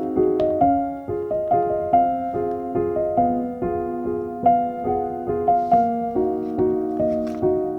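Soft background piano music: a gentle, evenly paced run of notes and chords, each struck note fading away.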